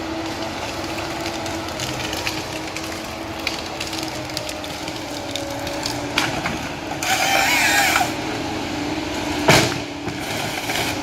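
Heavy vehicle engine running steadily, with a louder burst of hiss about seven seconds in and a single sharp knock near the end.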